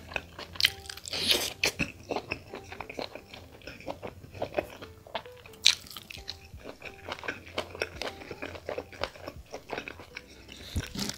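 Close-up mouth sounds of a person eating curried chicken gizzard and liver with the hands: biting and chewing, with many short clicks and wet mouth noises, busiest about a second in and with one sharp loud click near the middle.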